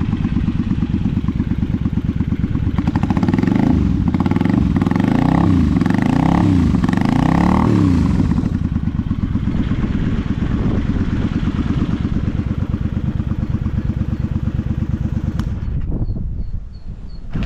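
Honda V-Twin Magna 250's V-twin engine running through drag pipes: it idles, is blipped several times a few seconds in, rising and falling in pitch each time, then settles back to a steady idle and drops away near the end. The seller reports no abnormal engine noise.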